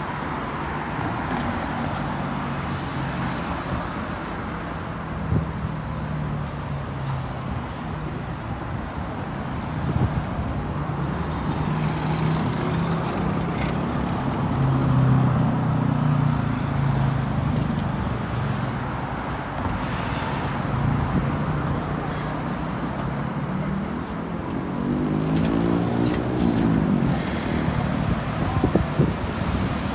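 Road traffic: motor vehicle engines running and passing by, with an even traffic noise throughout. About 25 seconds in, one engine note climbs and falls as a vehicle accelerates.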